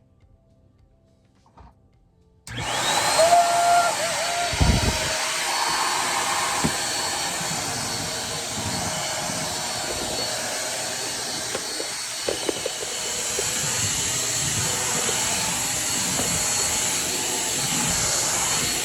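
Corded stick vacuum cleaner switched on about two and a half seconds in: its motor spins up with a rising whine and then runs steadily, with a thump soon after it starts.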